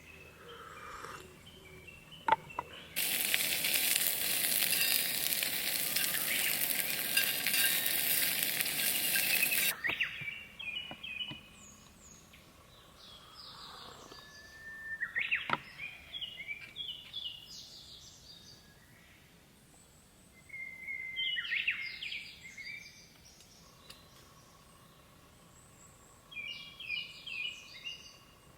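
Food frying in a pan, sizzling loudly for about seven seconds, then cutting off suddenly. After that, birds give short chirping calls several times.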